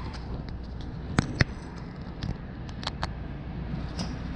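Electric commuter train pulling away from a station, heard from inside the carriage: a steady low rumble from the running gear, with several sharp clicks scattered through it.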